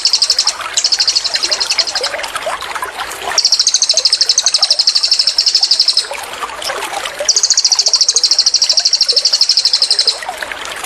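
Cililin bird singing its 'tembakan' song: loud, high, rapid pulsing trills, each two to three seconds long and coming in close succession, three in all. Between the trills, softer chirps sit over gurgling water.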